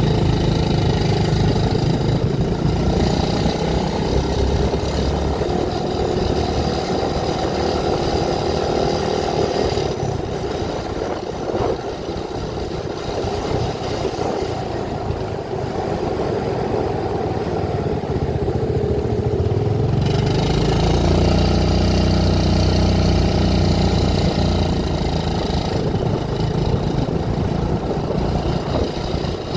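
Vehicle engine running steadily while driving, its note easing off for about ten seconds in the middle and then picking up again.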